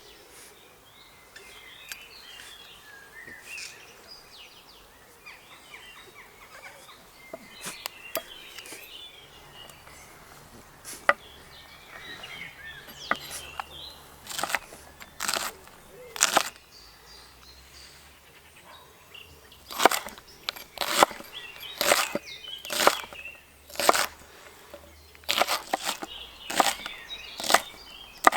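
Birds chirping in the background, then a series of sharp knocks or clicks, roughly one a second and loudest in the second half, over a faint low hum.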